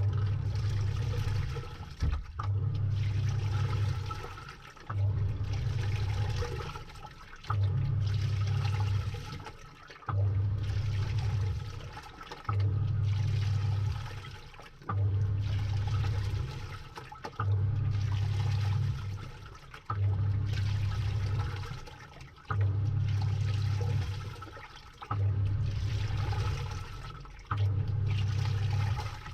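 Samsung 6.5 kg top-load washing machine in its wash agitation, heard from inside the drum. The motor hums low and the water and clothes churn in regular strokes about every two and a half seconds, each followed by a brief pause.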